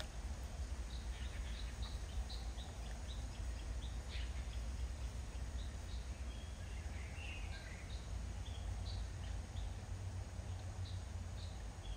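Birds chirping: many short, scattered calls over a steady low rumble of outdoor background noise.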